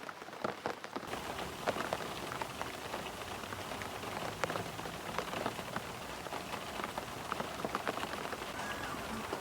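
Rain falling steadily, with many separate drops striking a surface close by; the rain sound grows fuller about a second in.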